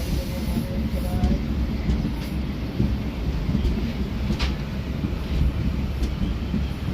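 Passenger train running, heard from on board an LHB coach: a steady low rumble of wheels on the track, with a sharp click about four and a half seconds in.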